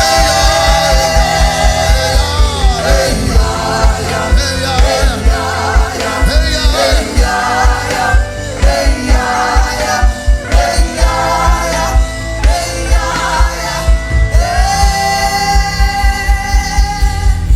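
Live gospel worship music: singers over a band with a steady, driving bass-drum beat. Held sung notes open and close the passage, with shorter phrases in between.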